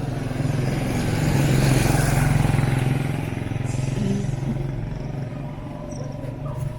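A motor vehicle passes close by with its engine running. It grows louder to a peak about two seconds in, then slowly fades away.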